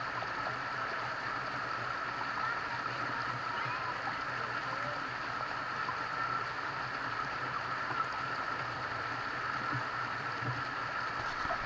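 Steady, even rush of a flowing stream.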